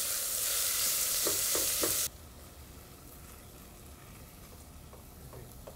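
Diced salami and chopped onion sizzling in hot oil in a stainless steel pot while being stirred with a spatula. The sizzle cuts off suddenly about two seconds in, leaving only a faint sound.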